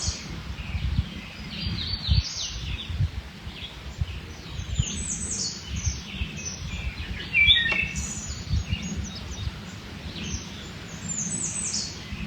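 Wild songbirds chirping and singing, many short high calls and trills overlapping, with one louder call about seven and a half seconds in. A low rumble runs underneath.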